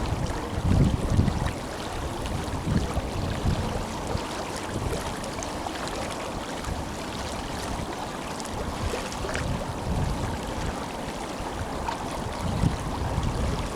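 Tenryu River flowing, a steady, powerful rush of water. Low gusts of wind buffet the microphone about a second in and again near the end.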